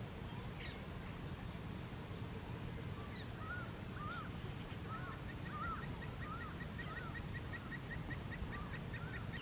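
Wetland waterbirds calling: a string of short, arched, honking calls about twice a second begins about three seconds in, joined about halfway through by a faster run of short, higher notes. A steady low rumble lies underneath.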